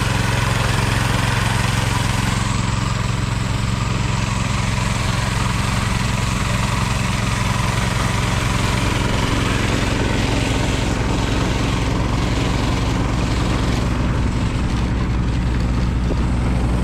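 Tractor engine running steadily at a constant speed close to the microphone.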